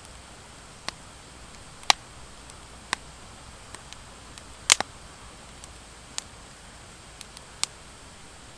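Wood fire of driftwood and dry hardwood logs crackling: sharp, irregularly spaced pops, the loudest about two seconds in and near the middle, over a soft steady hiss.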